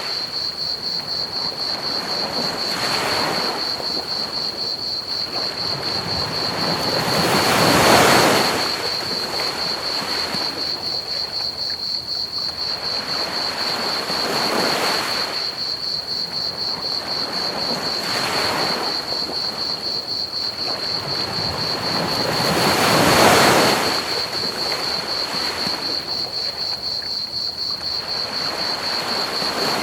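Ocean waves washing onto a beach, each swell rising and falling every few seconds, two of them larger breakers about a third and three quarters of the way through. Under them runs a steady high chirring of crickets and a soft bed of pink noise.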